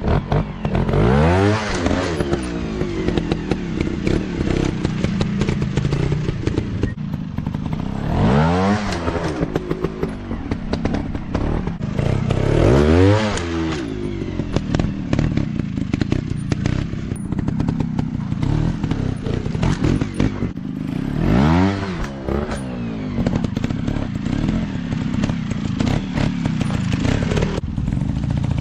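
Dirt-bike engines running under load on rough ground. The engine note climbs sharply and drops back four times as the throttle is opened and eased, over steady clattering and crackling.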